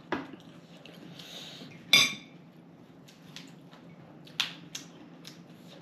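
Cutlery and dishes clinking during a meal: a handful of sharp clicks and taps, the loudest about two seconds in with a short ring.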